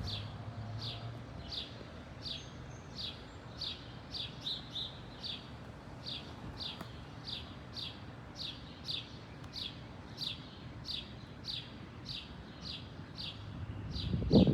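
A small bird repeating a short, falling chirp about once every three-quarters of a second, a few coming closer together near the middle, over a faint, steady low rumble.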